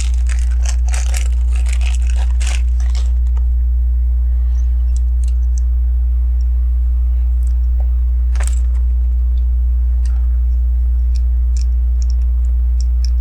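Plastic LEGO pieces clicking and rattling as they are handled and sorted, a busy clatter for the first few seconds, then occasional single clicks. A steady low electrical hum runs underneath.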